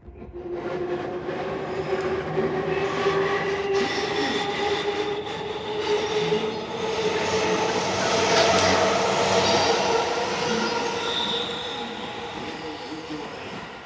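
An electric commuter train running along the platform close by, starting suddenly and loud throughout, with a motor whine that rises in pitch over the first few seconds.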